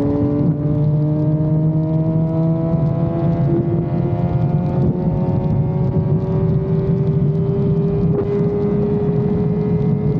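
Motorcycle engine at full throttle in a high gear, its pitch climbing slowly and steadily as it accelerates, over steady wind rush.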